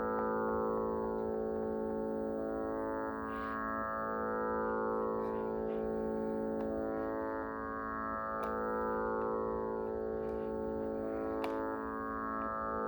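Radel Magic Plus digital tanpura playing its drone: a steady drone of many stacked tones, its string cycle swelling anew about every four seconds.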